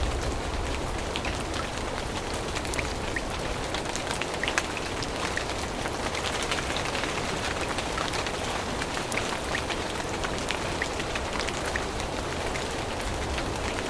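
Steady rain falling on forest foliage, with many scattered close drop ticks over a constant hiss.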